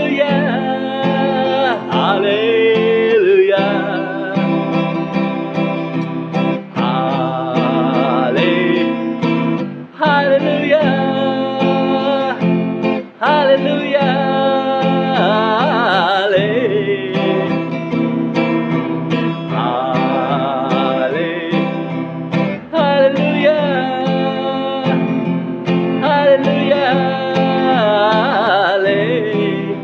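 Wordless singing, a gliding, wavering vocal melody, over acoustic guitar chords.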